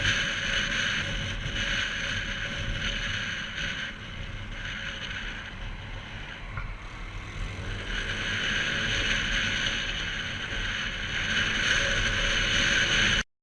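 Wind rush and low rumble from a moving motorcycle, swelling and easing, which cuts off suddenly near the end.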